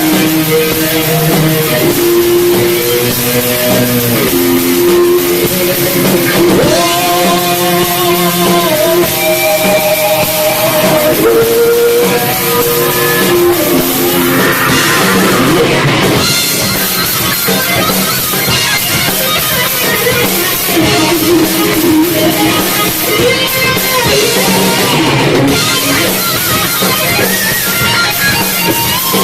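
Live metal band playing loud: electric guitars over a drum kit.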